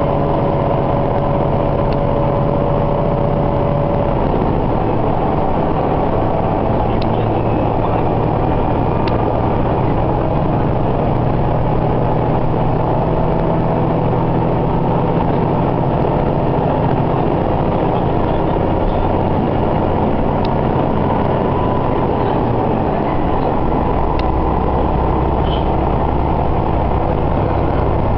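Sanriku Railway diesel railcar running, heard from inside: steady engine and wheel-on-rail noise, the low engine note changing about 23 seconds in.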